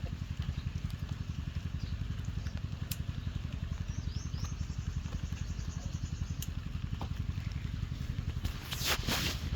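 A small engine running steadily, with a fast, even low throb. A brief rustle comes about nine seconds in.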